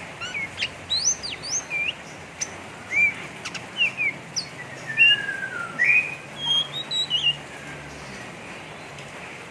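Oriental magpie-robin (kacer) singing its rough, chattering 'ngeriwik' song: rapid short whistled chirps and slurred notes, stopping a little after seven seconds in.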